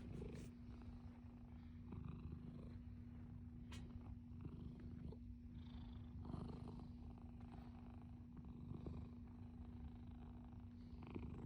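A domestic cat purring faintly and steadily.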